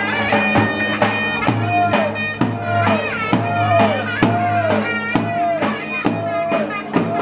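Zurna (double-reed shawm) playing an ornamented folk melody with bending notes over a steady low drone, while a davul bass drum beats along.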